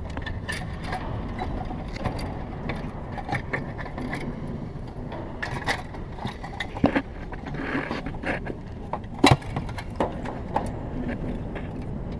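Scrapes, clicks and knocks of a part being worked and slid into place around a light-aircraft engine, with a sharp knock about nine seconds in, over a steady low rumble.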